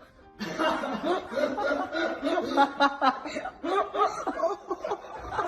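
A person laughing, a quick run of short chuckles starting about half a second in.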